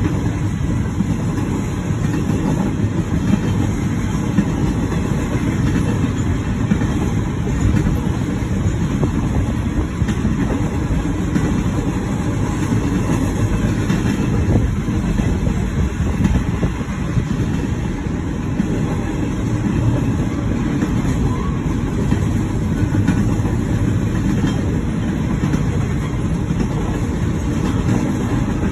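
Double-stack intermodal freight cars rolling past a grade crossing: a steady low rumble of steel wheels on the rails, heard from inside a car.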